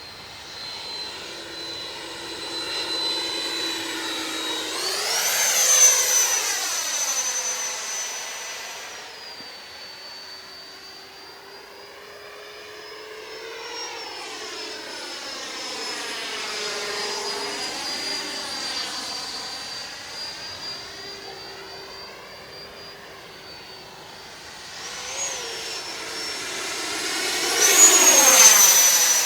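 Electric ducted fan of a Freewing J-10 90mm RC jet whining as it flies, its pitch sliding up and down as it comes and goes. It is loudest on two close passes, about six seconds in and again near the end.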